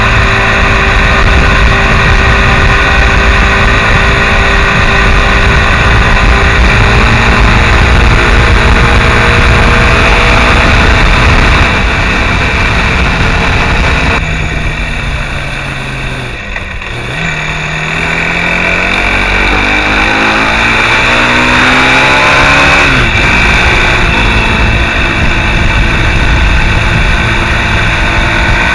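Mondial SMX enduro motorcycle's engine running at road speed, with wind rushing over the microphone. About halfway through, the throttle closes and the engine note drops and quietens. It then climbs again as the bike accelerates, with a break in the rising note about two-thirds of the way through as it shifts gear.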